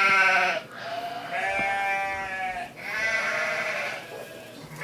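A bleating sheep sound, his 'beatbox sheep sound': three drawn-out bleats, the first short and loudest, the next two longer.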